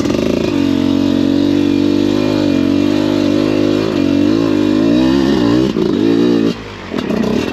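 Enduro motorcycle engine held at steady revs with small rises and falls in pitch. The revs drop away about six and a half seconds in, then pick up again near the end.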